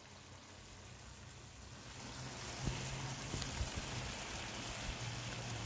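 Ribeye steaks and sliced peppers, onions and mushrooms frying in a skillet: a steady sizzling hiss that grows louder over the first two seconds.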